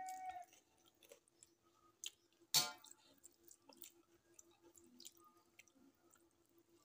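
Faint close-up eating sounds: soft chewing and small wet mouth and finger clicks as rice and dal are eaten by hand, over a faint steady hum. A held tone stops half a second in, and one sharp click comes about two and a half seconds in.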